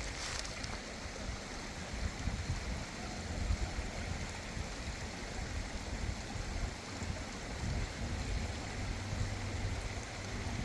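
Steady outdoor rushing noise with an uneven low rumble underneath, of the kind made by wind on the microphone or running water.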